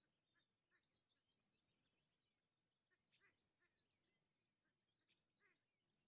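Near silence, with faint, high chirping of small birds scattered throughout and a steady thin high-pitched whine underneath.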